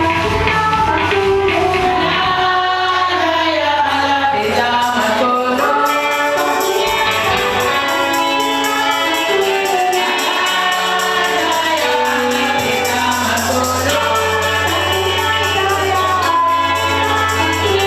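A group singing a gospel hymn in harmony, with a tambourine keeping a steady beat.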